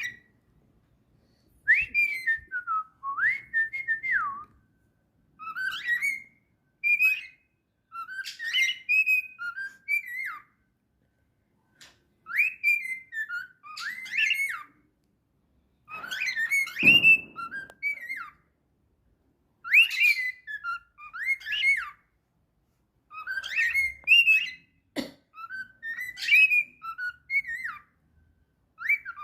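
Cockatiel whistling a tune over and over in short phrases of rising and falling notes, with brief pauses between phrases. There is a brief low thump about halfway through.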